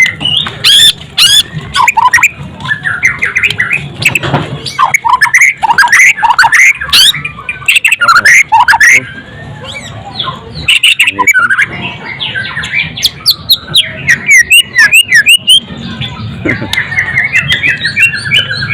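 White-rumped shama (murai batu) singing a fast, varied song of whistled notes, quick pitch sweeps and sharp clicks, ending in a long descending trill.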